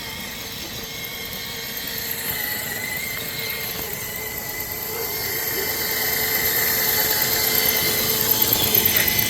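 Axial SCX6 RC crawler's electric motor and geartrain whining steadily as it drives, growing louder over the last few seconds.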